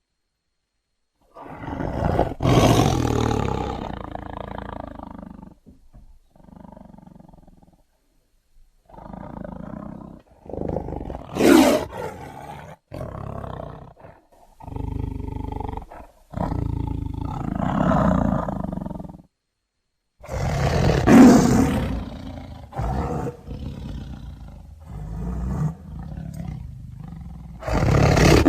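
A tiger roaring and growling again and again, a string of separate calls broken by brief silent gaps.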